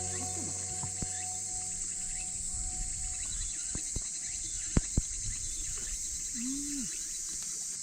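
A steady, high insect chorus of crickets chirring, with background music fading out over the first few seconds and two sharp clicks near the middle.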